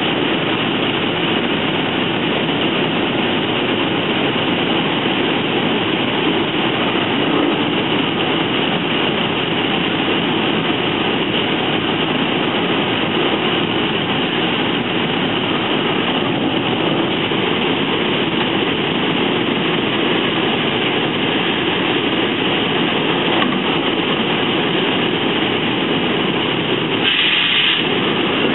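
NJ Transit Multilevel passenger coach rolling at speed over the rails, heard from inside the car: a steady, loud rumble and rattle of wheels and car body. A brief higher-pitched hiss rises about a second before the end.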